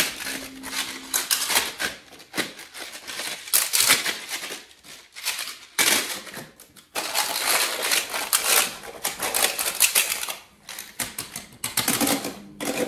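Picasso Tiles, plastic magnetic building tiles, clicking and clattering as they are handled, knocked together and snapped into place, in quick irregular runs of clicks with brief pauses.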